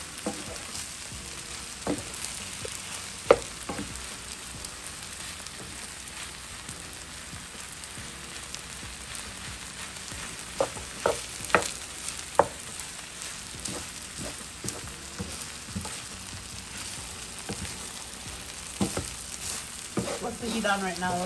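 Shrimp and pineapple fried rice sizzling in a frying pan while it is stirred and tossed with a wooden spatula, with the spatula knocking sharply against the pan now and then.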